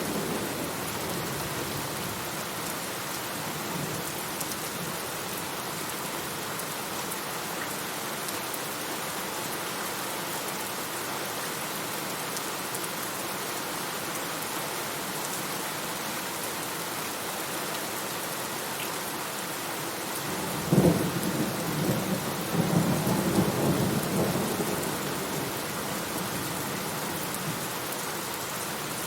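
Steady heavy rain falling, with a thunderclap about two-thirds of the way through that cracks suddenly and rolls on as rumbling for a few seconds before the rain alone carries on.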